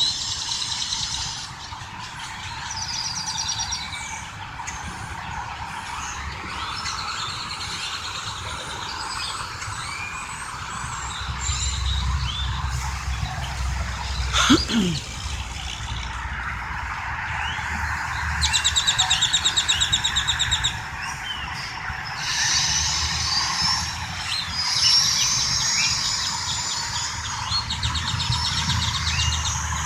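Birds chirping, trilling and whistling over the low rumble of traffic passing on the highway. About halfway through comes one brief, loud sound with a quickly falling pitch. A little later there is a fast, buzzy trill lasting a couple of seconds.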